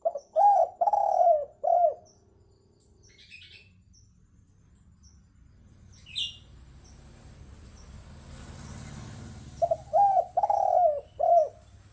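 Spotted dove (tekukur) cooing: two phrases of about five coos each, one at the start and one near the end. A short high chirp comes about six seconds in.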